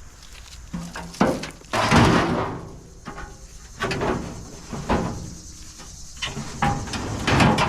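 Scrap metal clanking and scraping as pieces are handled and loaded into a truck bed: a string of irregular knocks and clatters, several of them loud.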